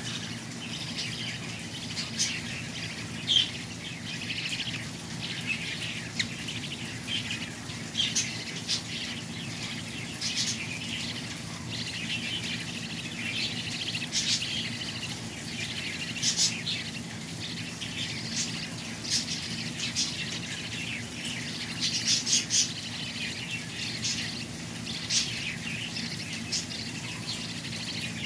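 Small birds chirping and calling: many short, overlapping chirps, near-constant, with some louder calls standing out.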